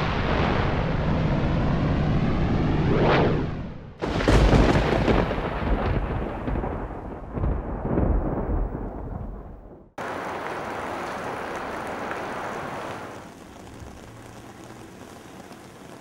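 A whooshing sweep that swells and cuts off, then thunder rumbling with heavy rain for about six seconds, then it stops abruptly. Steady rain hiss follows on a wet street, growing quieter a few seconds later.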